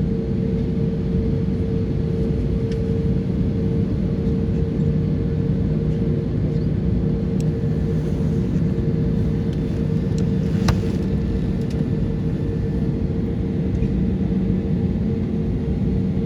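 Steady airliner cabin drone: engine and airflow rumble with a constant hum, holding level without rising or falling. One faint click about eleven seconds in.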